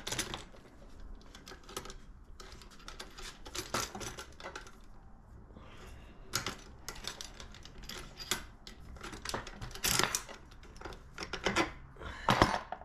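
Copper flaring tool being handled, with irregular metallic clicks and clatter of the flare bar and yoke.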